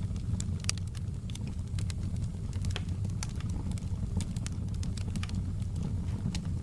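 Outdoor campfire burning: a steady low rumble of flames with frequent irregular crackles and pops of burning wood.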